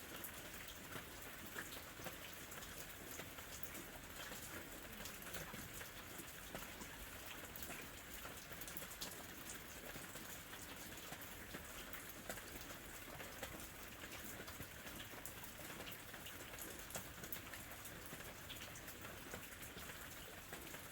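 Steady light rain, with many small drops pattering and ticking on surfaces.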